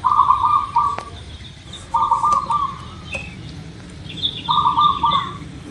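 Zebra dove (perkutut) cooing: three short, rapidly trilled coos about two seconds apart, with fainter high chirps from another small bird.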